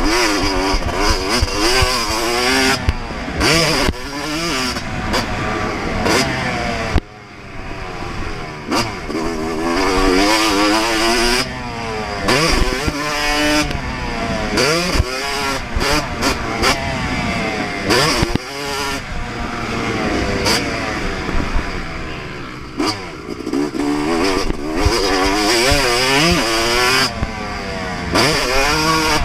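2024 Yamaha YZ250 two-stroke motocross bike ridden hard around a track, its engine revving up and down over and over as the rider works the throttle and gears. The throttle is shut abruptly about seven seconds in, and sharp knocks are scattered throughout.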